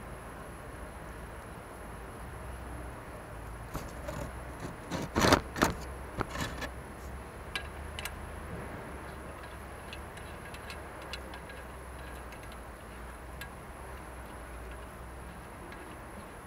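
Metal clinks and knocks of a car wheel and its wheel bolts being refitted to the hub, a cluster of them about four to seven seconds in, loudest near five seconds, followed by a few scattered light ticks.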